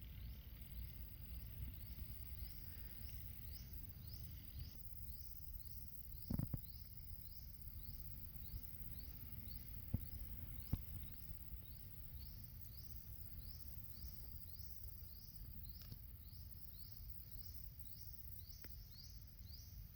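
Faint outdoor ambience: a short rising chirp from a small animal repeats about twice a second, over a low rumble, with a few soft knocks.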